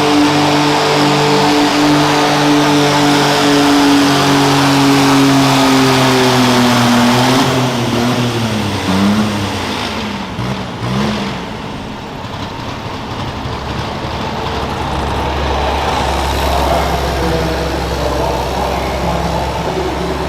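Pulling garden tractor's engine running at high revs. About seven seconds in, its pitch falls and wavers, then it settles into lower, steady running.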